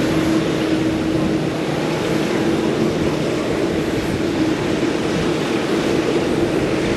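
Jet airliner engines running, a steady loud rushing noise with a constant hum underneath.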